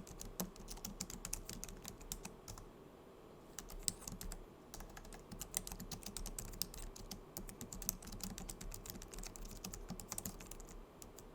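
Typing on a Logitech MX Keys keyboard: quick, irregular clicks of its low-profile scissor-switch keys, with a short pause about three seconds in.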